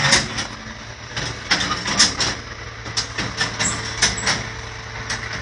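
The 1922 Buick's engine idling with a steady low hum, with irregular sharp clicks and knocks over it.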